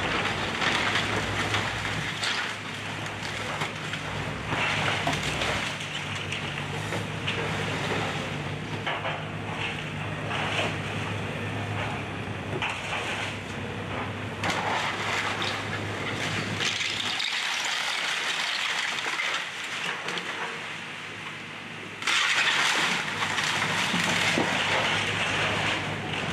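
Excavator demolishing a house: its diesel engine hums steadily while wood and debris crack and crunch. The engine hum drops out about two-thirds of the way through, and a loud, steady rushing noise starts suddenly near the end.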